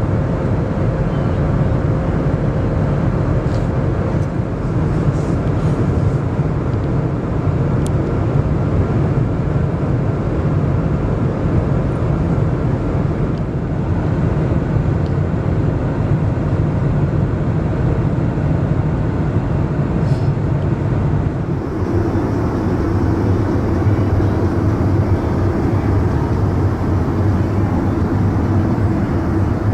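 Airbus A321neo jet engine noise: a loud, steady hum. It changes abruptly about 21 seconds in to a lower, different hum.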